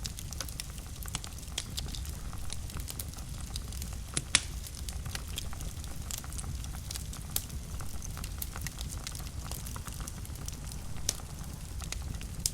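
Fire in a fireplace crackling, with frequent sharp pops over a low steady rumble of the flames. One pop about four seconds in is louder than the rest.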